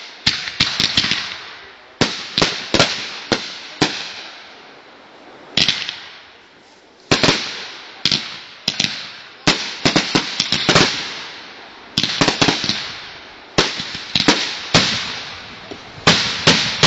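Consumer fireworks going off in a rapid, irregular string of sharp bangs, several in quick clusters, each trailing off into a fading hiss, with a brief lull about four seconds in.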